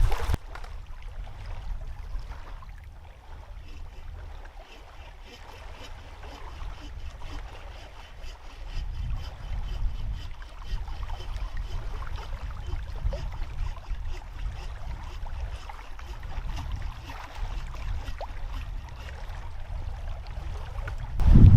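Low, uneven rumble of wind on the microphone at the shore, with faint sounds of moving water.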